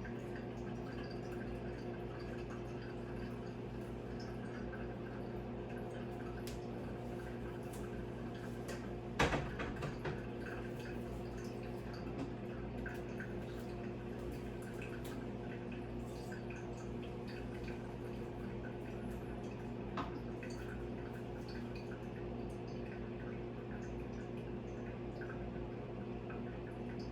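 Coffee dripping through a Hario V60 pour-over filter into the carafe as the brew drains, over a steady low hum. A sharp clink about nine seconds in, and a fainter one near twenty seconds.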